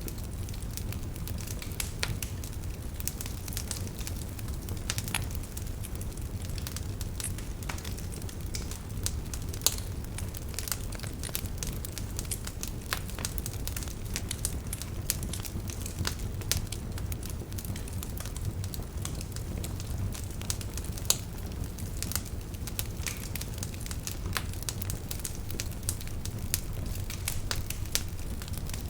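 Wood fire crackling in a fireplace: a steady low rumble of flame under many irregular sharp pops and snaps.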